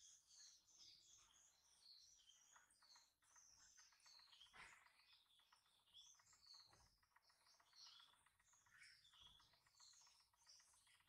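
Faint chirping of small birds in the background, many short high notes overlapping, with a few soft thumps of handling.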